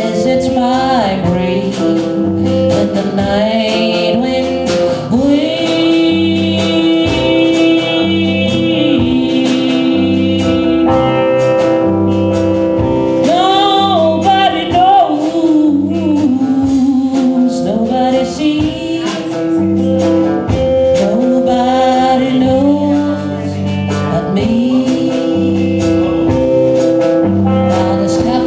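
A band playing live, with singing over the instruments and a steady beat.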